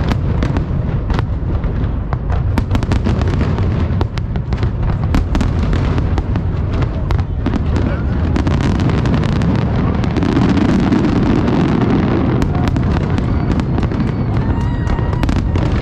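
Fireworks display: many sharp bangs and crackles in quick succession over a continuous low rumble.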